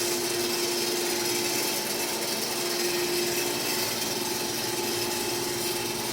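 Bode VP2 welding positioner's electric rotation drive running, turning the faceplate, a steady whine over a steady mechanical noise; the whine weakens a little past halfway.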